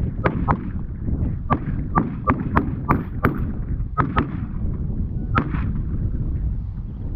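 A rapid volley of shotgun shots from several hunters firing at Canada geese, about a dozen sharp reports, many in quick pairs, the last one about five seconds in.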